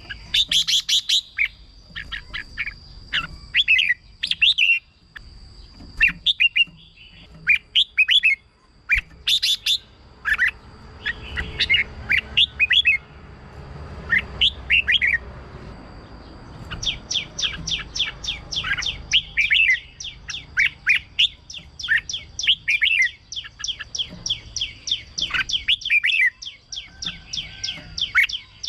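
Red-whiskered bulbul singing: short, sharp chirping phrases, with a fast run of rapid notes in the second half. A steady thin high tone runs underneath most of it.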